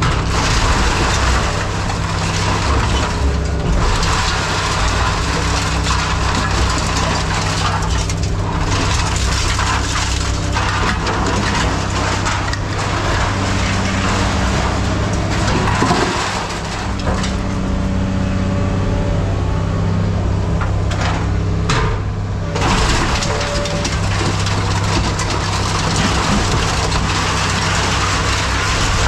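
A heavy machine's engine running steadily, with scrap clattering and crunching over it throughout.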